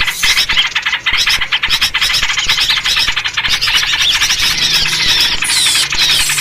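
A dense, agitated chorus of small birds chattering and chirping rapidly without a break, with short downward-sliding whistled notes standing out, more often near the end. It is a noisy-bird lure call used to draw birds in, led by trucuk (bulbul) calls.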